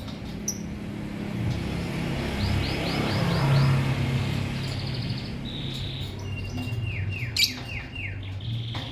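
Lovebirds chirping: a quick run of short falling chirps about two and a half seconds in, a few held notes, and another run of falling chirps near the end, over a low steady hum. A sharp click sounds about seven seconds in.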